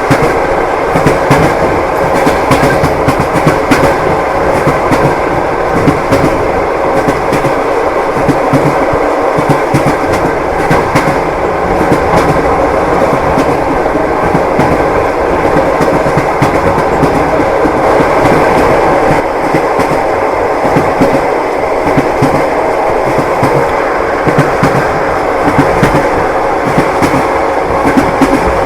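Train running on rails: a steady rumble with the wheels clacking over the rail joints.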